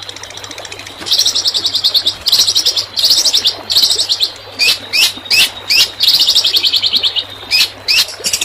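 A songbird giving rapid, machine-gun-like rattling trills, the 'tembakan' song used to tutor long-tailed shrikes. The first burst starts about a second in, short downward-sweeping whistled notes come in the middle, and then another long trill follows. A faint steady hum runs underneath.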